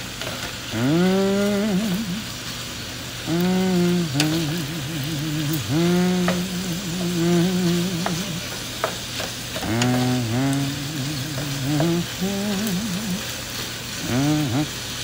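Chicken and shrimp sizzling in a pot while being stirred, with a few clicks of the spoon against the pot. Over it, louder, a man's voice hums a wordless tune in long wavering notes that scoop up at their start.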